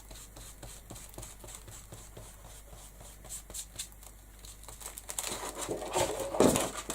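Foam ink blending tool dabbed and rubbed over card stock, blending Distress ink: a run of faint taps, then a louder stretch of rubbing and rustling about five seconds in.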